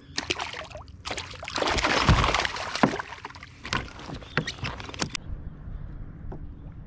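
Knocks, clicks and a burst of splashing and rustling aboard a fishing kayak as a freshly caught scup is brought in and handled; the sounds stop about five seconds in.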